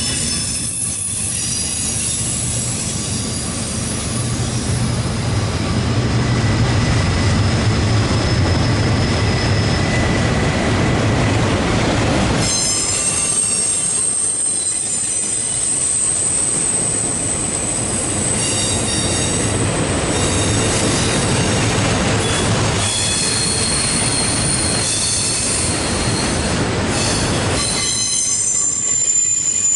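CSX diesel-powered intermodal freight train passing: the locomotives' low engine drone in the first part, then the double-stacked container well cars rolling by with steady high-pitched wheel squeal and rail clatter.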